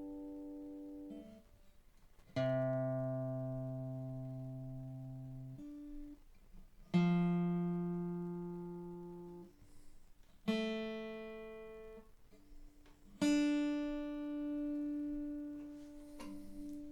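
Seagull S6 acoustic guitar's freshly fitted strings plucked open one at a time, each note left to ring out and fade over a few seconds, the pitch stepping higher from string to string: a tuning check after restringing. Four new plucks, following a lower note that is still dying away.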